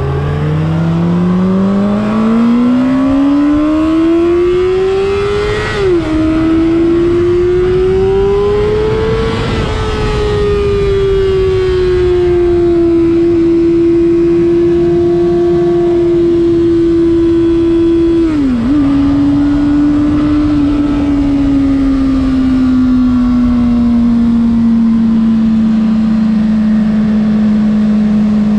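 2026 Honda CBR600RR's inline-four engine accelerating hard with a rising howl. There is a quick upshift about six seconds in and another climb, then the bike holds high, steady revs that slowly ease off, with a second shift about two-thirds of the way through. Wind rushes on the microphone.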